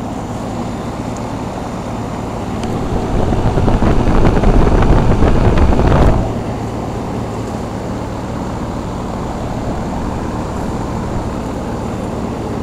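Carrier central air-conditioner condensing units running: a steady hum of the compressors under the whoosh of the condenser fans. About two and a half seconds in, a louder rushing swells up, then cuts off suddenly about six seconds in.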